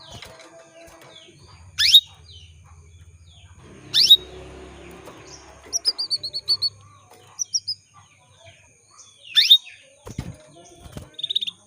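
Female domestic canary calling for a male. Three loud, sharp calls sweep steeply down in pitch, one near the start, one about four seconds in, and one near the end. A quick run of about seven short falling notes comes in the middle. Fainter chirps carry on in the background.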